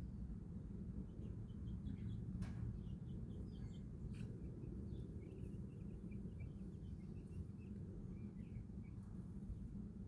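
Baby chicks chirping in many short, quick peeps over a steady low rumble, with two sharp clicks about two and a half and four seconds in.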